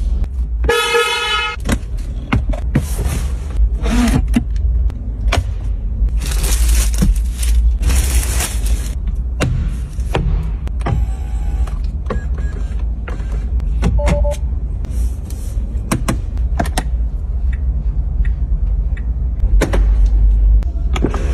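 Traffic noise with a constant low rumble and scattered knocks and clicks; a car horn sounds briefly about a second in.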